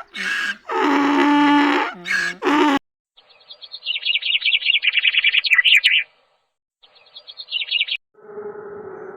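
Three drawn-out pitched animal calls, then a small bird chirping in rapid, high trills in two bursts. A steady pitched tone begins near the end.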